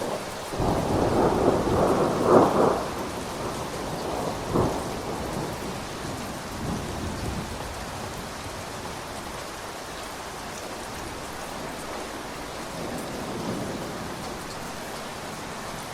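Steady rain with a roll of thunder: a rumble builds from about half a second in and is loudest around two seconds. A second, sharper clap comes near five seconds, then the rumble dies away under the rain.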